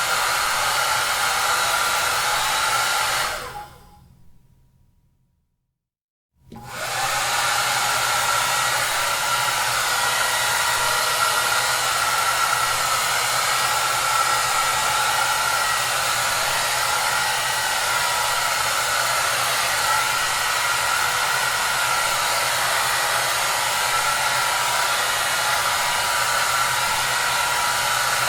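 Hair dryer running with a steady whooshing hiss and a faint hum underneath. About three seconds in, the sound dies away to silence. About three seconds later it comes back abruptly and runs steadily on.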